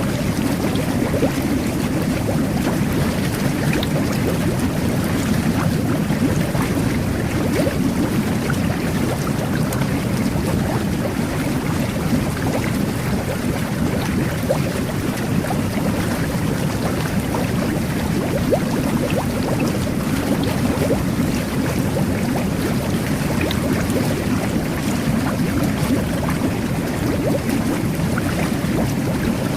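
Jet bath: water churning and bubbling steadily under the jets, a deep, even rush with small pops of bursting bubbles.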